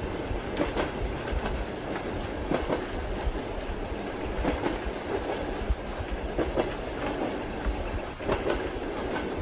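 Moving train carriage heard from inside: a steady low rumble with wheels clacking over rail joints every second or two, under an even hiss of rain.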